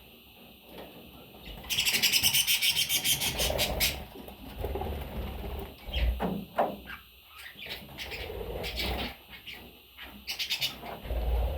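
Budgerigar chirping: a fast, loud run of rapid high chirps starting about two seconds in, then scattered short calls.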